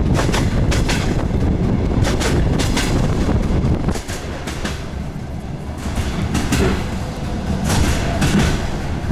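DR1A diesel multiple unit running along the line, with a steady low rumble and the wheels clicking over rail joints. The rumble drops somewhat about four seconds in, and clicks pick up again near the end.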